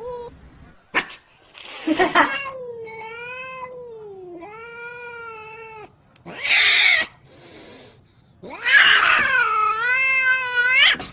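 Domestic cat yowling: two long, wavering, drawn-out calls, each preceded by a short harsh, noisy sound. There is a sharp click about a second in.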